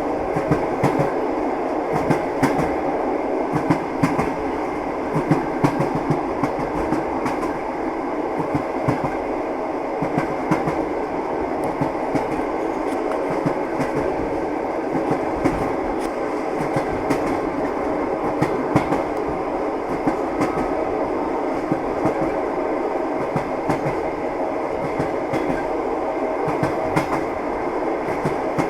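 Moving train's wheels clattering over rail joints, a clickety-clack of irregular knocks over a steady rolling rumble.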